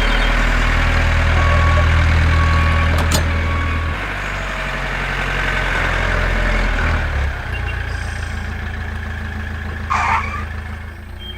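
Heavy vehicle engine running steadily, its pitch stepping down about four seconds in and shifting again near seven seconds. Three short beeps and a sharp click sound in the first three seconds, and a brief hiss about ten seconds in.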